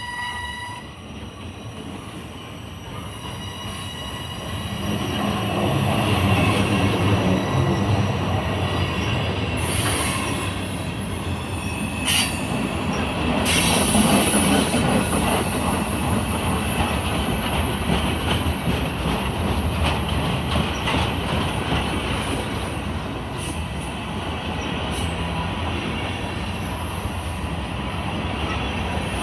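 A BNSF freight train led by GE ES44 diesel locomotives passing: a horn note cuts off right at the start. The locomotives' engines then build to a loud rumble about five seconds in, with a few sharp clanks. After that comes the steady rumble of cars rolling past on the rails.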